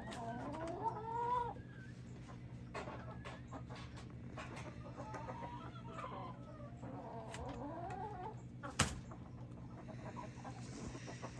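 Hens clucking and making soft warbling calls as they look for a perch to roost on at dusk, with one sharp knock about nine seconds in.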